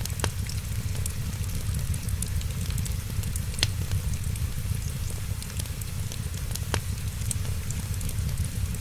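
Wood fire crackling with fine, constant small ticks over a steady low rumble, with three sharper pops spaced about three seconds apart.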